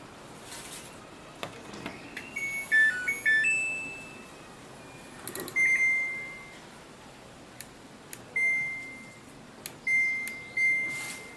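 Samsung front-load washing machine control panel: a short tune of beeps at changing pitches as it powers on, then single steady beeps as cycle and option buttons are pressed, each beep preceded by a light click.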